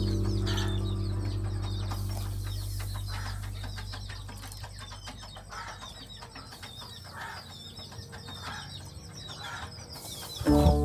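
Birds chirping with many short, high calls, over a low droning music tone that fades away over the first several seconds. Music comes back in right at the end.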